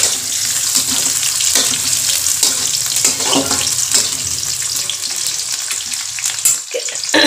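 Sliced onions sizzling steadily in hot oil in an aluminium kadhai. A spatula stirring them scrapes and clicks against the pan throughout.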